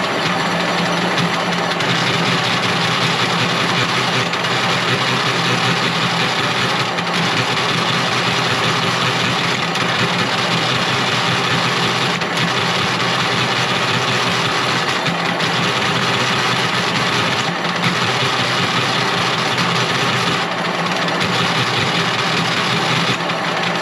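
An engine or machine motor running steadily with a low hum, its sound dipping briefly a few times.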